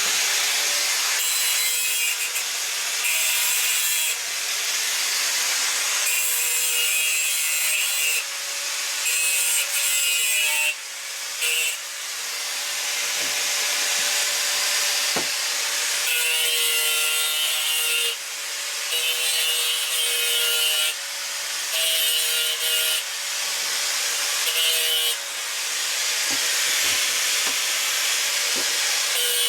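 Power grinder working the steel of a truck leaf spring: a loud hissing grind with a motor tone underneath, in repeated passes of one to two seconds, the tone shifting slightly from pass to pass.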